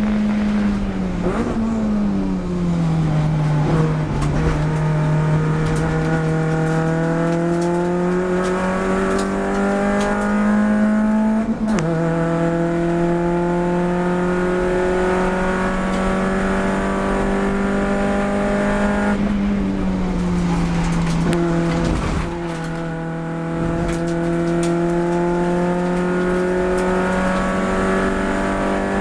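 Race car engine at full throttle, its pitch climbing slowly as it pulls through a gear, dropping suddenly about twelve seconds in at an upshift, sinking again around twenty seconds in, then climbing once more.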